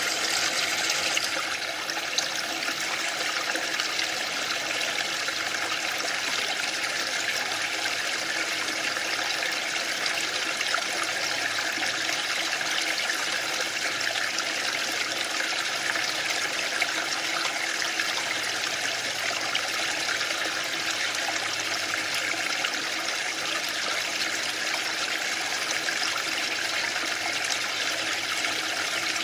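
Waterfall: a steady, unbroken rush of falling water with no surges or pauses.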